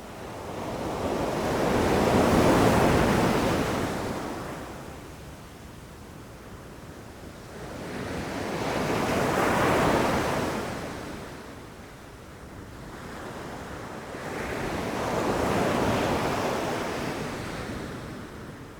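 Ocean waves rushing and crashing on the shore: three waves, each surging up and washing back, about six seconds apart.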